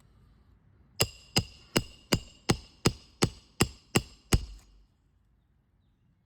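Roofing hammer striking a steel roof snake ten times in quick, even succession, about three blows a second with a metallic ring, driving a roofing nail up under a 3-tab shingle.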